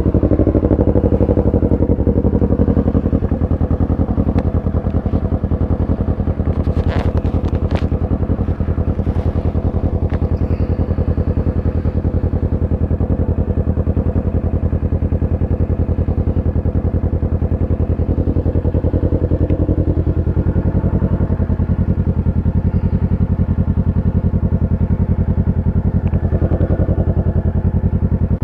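Kawasaki Ninja 650's parallel-twin engine running steadily at an even speed, with a couple of brief clicks about seven seconds in.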